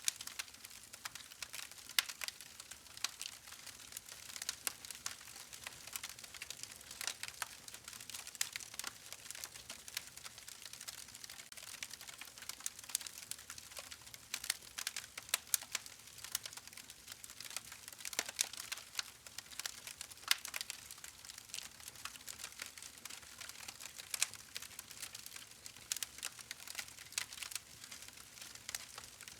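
Campfire crackling: burning wood popping and snapping in a dense, irregular stream of sharp clicks over a steady hiss.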